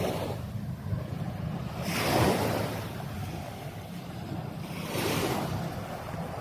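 Small waves washing onto the beach in swells, one about two seconds in and another around five seconds, with wind buffeting the microphone and a steady low rumble underneath.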